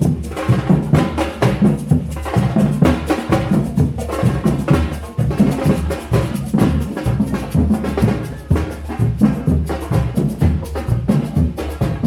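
Parade music played on drums and other percussion, a dense run of strikes with a strong low drum beat.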